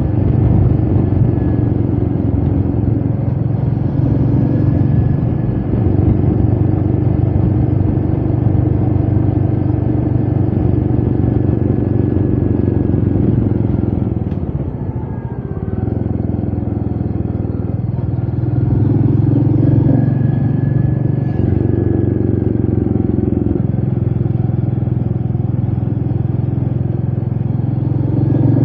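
Royal Enfield Meteor 350's single-cylinder engine running steadily under way, with wind noise. About halfway through, the engine note drops and eases off briefly, then picks back up.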